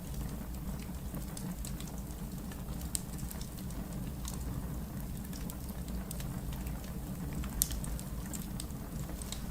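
Wood fire burning in a fireplace: a steady low rumble with scattered small crackles and pops, the sharpest pop about three-quarters of the way through.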